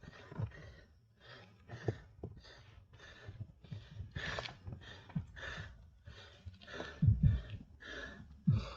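A cyclist's heavy, rhythmic panting while pedalling up a steep climb, about two hard breaths a second, with a few louder low thuds around seven seconds in.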